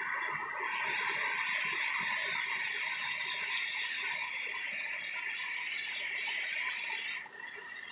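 Heavy rain of a summer downpour, a steady hiss that eases a little about seven seconds in.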